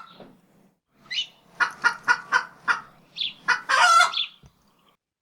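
Chicken clucking: about eight short clucks in quick succession, then a longer, drawn-out call around four seconds in, stopping shortly after.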